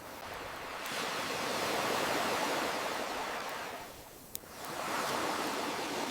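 Ocean waves washing onto a shore: one wave swells and fades, and another rises near the end. A campfire crackles over it, with one sharp pop about four seconds in.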